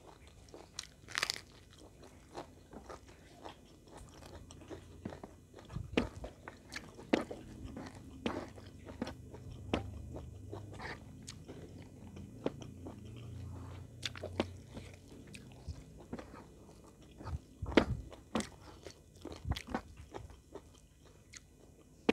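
Close-miked eating by hand: irregular crisp crunches and chewing of raw cabbage leaf dipped in sambal, with mouth clicks and wet chewing. The sharpest crunches come about a second in and again near the end.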